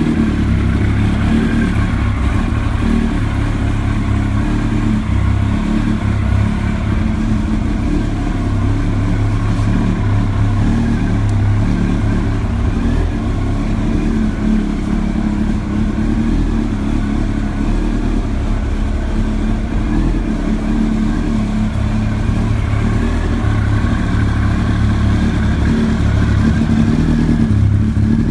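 A 1999 Yamaha YZF-R1's inline-four engine idling steadily through an Arrow aftermarket exhaust.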